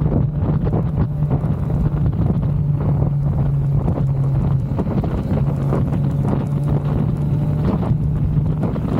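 A Kawasaki Z900's inline-four engine running under way at steady revs, with wind buffeting the microphone. The engine note drops a little about halfway through, then rises again.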